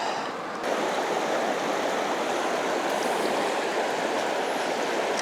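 River current rushing steadily, a broad even rush of water that grows louder and brighter about half a second in.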